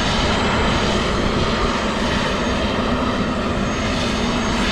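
Helicopter running steadily on its landing pad just after touching down, its engine and rotor giving a loud, even noise with a low hum.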